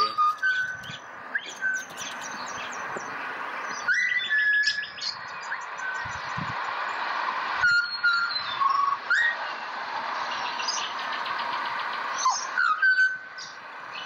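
Pied butcherbird singing: a string of short, clear, fluty whistled notes, some sliding upward, with runs of quick high-pitched chattering notes in between.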